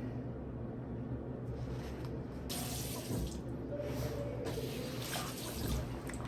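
Water from a tap running into a sink, starting about two and a half seconds in and coming and going, as during washing up at a washbasin.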